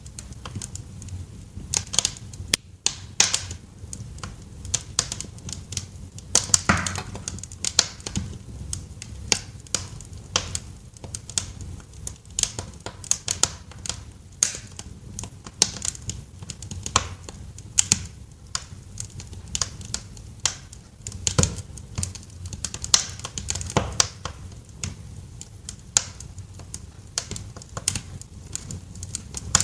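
Wood fire crackling in a fireplace: irregular sharp snaps and pops, several a second, over a low steady rumble.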